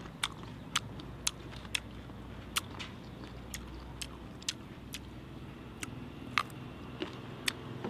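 Crunching bites into bamboo shoot: a dozen or so sharp, irregular cracks over a faint steady low hum.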